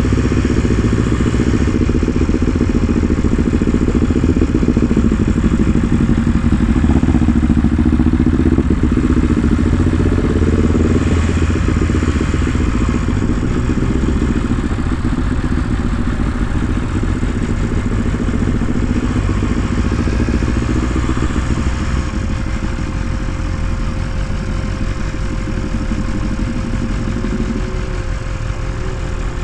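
Motorcycle engine running steadily at low revs, its pitch wavering gently.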